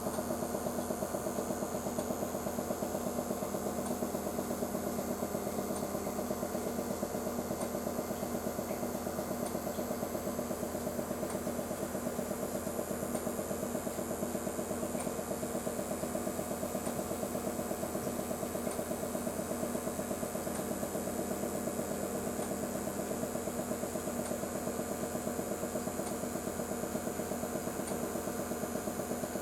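Steady hum of a small motor running evenly, with a fast flutter and no change in pitch or level.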